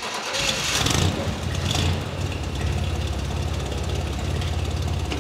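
The 231 cubic-inch V6 in a 1954 Glasspar G2 running at idle with an even, fast pulsing. It is a little louder in the first two seconds, then steady.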